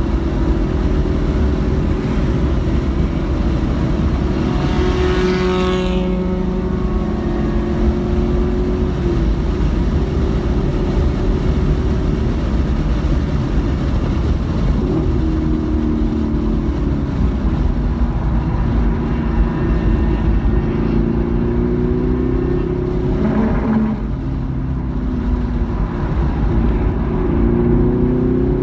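Car engine under hard driving on a racetrack, heard from inside the cabin with road and wind noise. The engine note climbs and drops back several times, and a brief falling whoosh passes about five seconds in.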